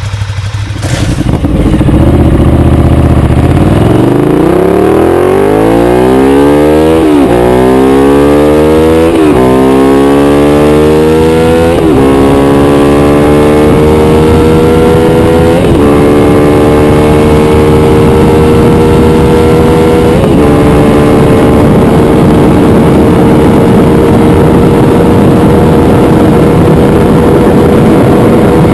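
Motorcycle accelerating hard through the gears. The engine note climbs, dips briefly at five upshifts spaced further and further apart, then holds almost steady at high speed in top gear.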